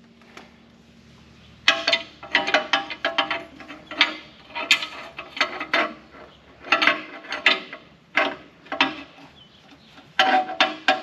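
Irregular metallic clanks and clinks, each with a brief ring, starting about two seconds in and coming in clusters of several a second: metal tools or parts struck and handled during work on the tractor's loader.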